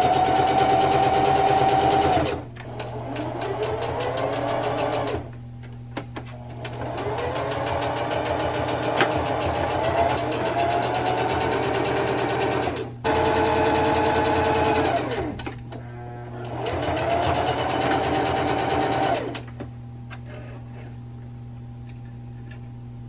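Singer Heavy Duty sewing machine stitching in about five runs, its motor whining up in pitch as each run starts and cutting off sharply between runs. It stops a few seconds before the end, leaving a low steady hum.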